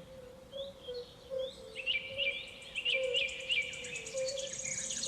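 A wasp buzzing with a steady drone, while birds chirp in the background and a fast, high trill joins in about a second and a half in.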